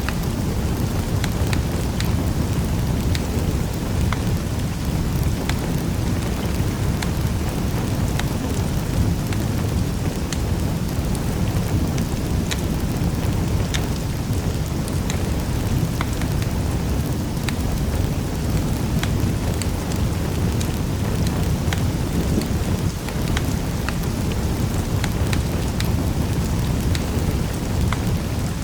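Wood fire burning in a fireplace: a steady low rumble of flames under irregular sharp crackles and pops.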